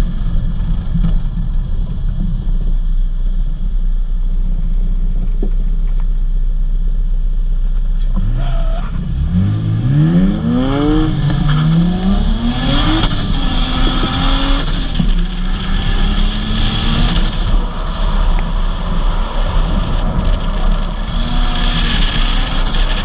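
Turbocharged Lexus IS200 engine running at steady revs, then from about nine seconds in revving hard, its pitch rising and falling in repeated sweeps with a high whine climbing above it.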